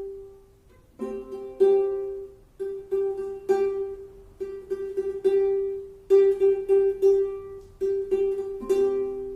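Music from a small plucked-string instrument playing a short melody of sharply plucked notes, many quickly repeated on the same pitch.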